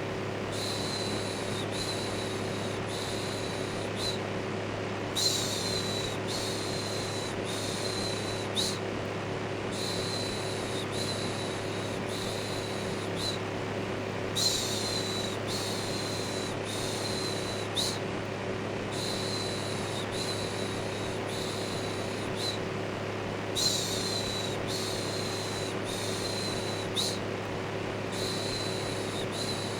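Electric fan running with a steady hum, overlaid with a repeated soothing "shhh" shush, the shushes coming in sets of about three with short pauses between.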